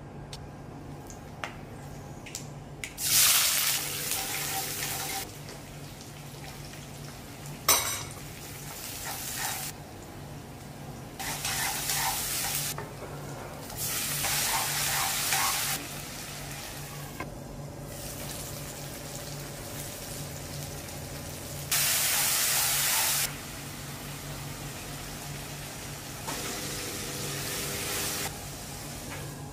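Food frying in hot oil in a wok, sizzling in several separate bursts of a second or two as ingredients go in and are stirred with a spatula. There is a single sharp knock about eight seconds in, and a steady low hum underneath.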